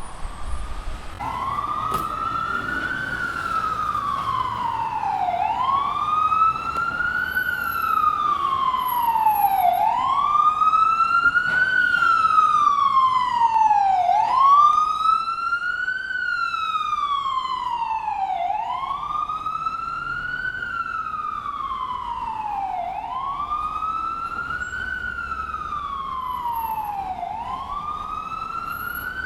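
Ambulance siren on a slow wail: each cycle climbs for under two seconds and slides back down more slowly, repeating about every four and a half seconds.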